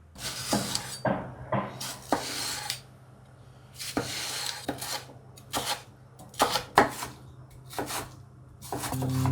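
Kitchenware handled at a counter: dishes and utensils knocking and clinking about a dozen times at irregular intervals, with a few short scraping or rubbing sounds between them.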